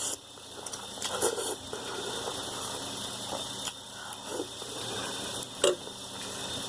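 Someone eating ramen noodles: a few short clicks and knocks, like utensils against the bowl, the loudest near the end, over a steady background hiss.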